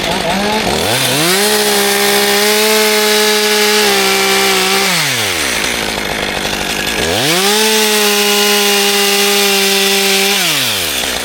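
Two-stroke chainsaw opened up to full throttle twice, each burst held about three seconds, sawing wood, with the engine note dropping back toward idle between bursts.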